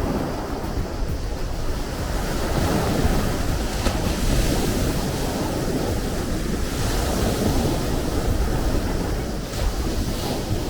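Sea surf: waves breaking and washing in a continuous rushing noise that swells a little about four seconds in and again around seven seconds.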